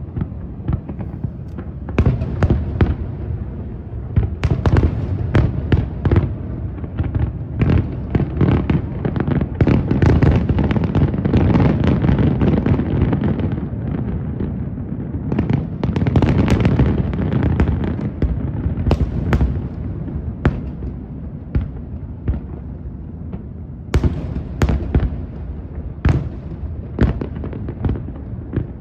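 Fireworks display: a dense run of aerial shell bursts, bangs and crackling over a low rumble. It is heaviest through the middle, then thins out so that separate bangs stand out near the end.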